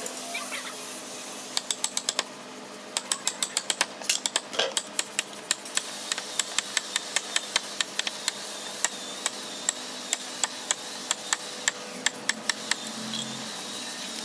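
Repeated sharp taps of a hammer or mallet striking, at an uneven few a second with short pauses, over a faint steady hum.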